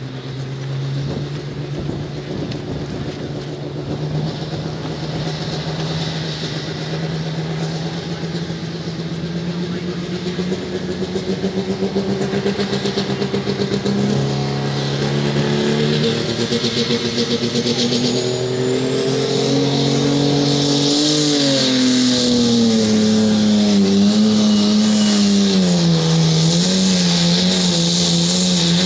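Super stock pulling tractor's turbocharged diesel engine under full load pulling the sled, getting louder. Its pitch climbs steadily for about twenty seconds, then drops and wavers up and down as the engine is pulled down toward the end of the run.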